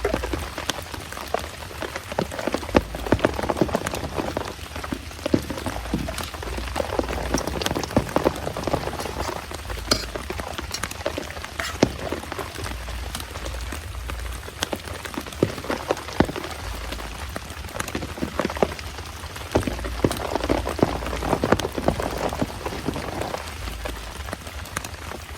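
Heavy rain pouring down, a dense, irregular patter of drops striking nearby surfaces that swells louder and eases off every few seconds.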